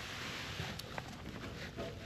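1978 Honda CB750K's four-cylinder engine running roughly at idle, with a few light clicks; a vacuum leak has it firing on what the owner thinks is only about two cylinders.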